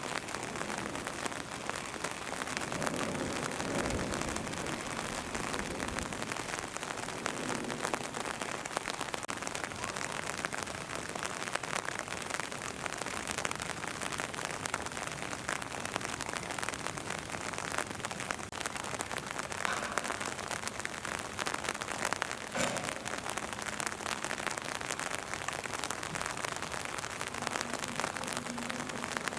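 Steady rain falling, with many small ticks of individual drops landing close by.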